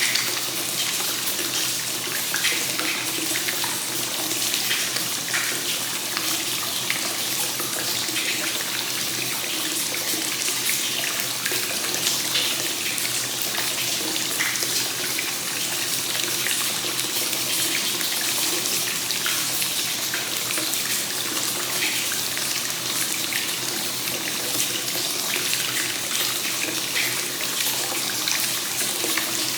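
Free-flowing hot spring water (gensen kakenagashi) pouring steadily into a bath, a continuous splashing stream.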